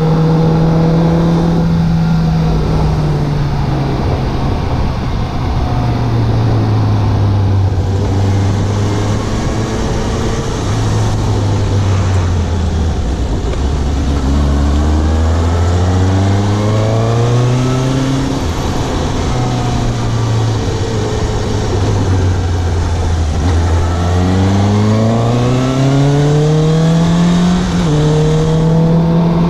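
Suzuki GSX750 motorcycle engine heard from the rider's position while riding. The engine note holds, falls back, then twice climbs steadily as the bike accelerates, each climb cut off by a drop in pitch at a gear change. Wind and road noise run underneath.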